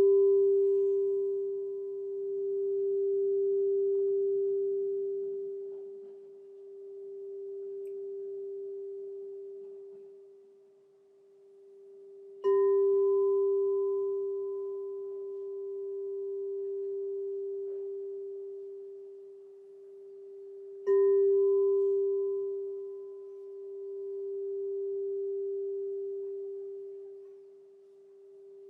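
Crystal singing bowl ringing with one pure, steady tone that slowly swells and fades in a wavering beat. It is struck twice more, about midway through and again about three quarters through. Each strike brings a sharp onset and a fainter higher overtone that dies away within a few seconds.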